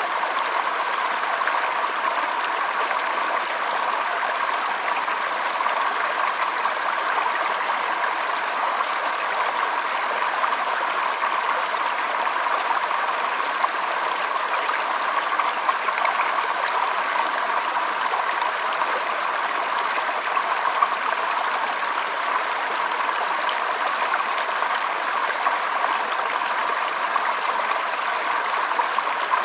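Shallow stream trickling and babbling over stones, a steady continuous flow of water with small splashing flickers.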